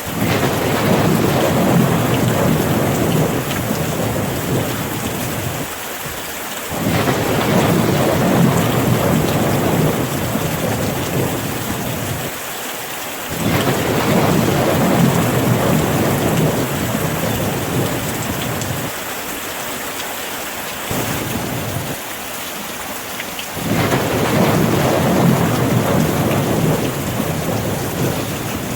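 Steady rain falling, with four long rolls of low thunder, each swelling quickly and fading away over several seconds.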